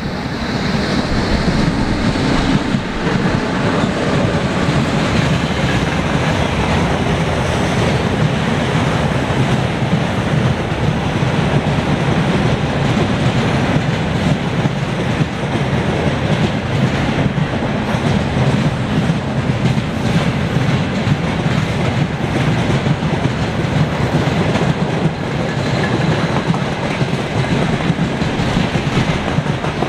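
A long freight train's wagons rolling steadily past on the rails: a continuous loud rumble of wheels with clatter over the rail joints.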